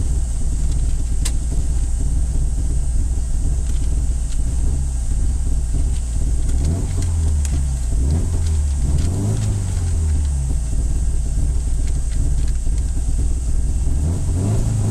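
Subaru Impreza STI rally car's turbocharged flat-four engine idling steadily, heard inside the stripped cabin. About halfway through the engine note rises and falls for a few seconds in light revs before settling back.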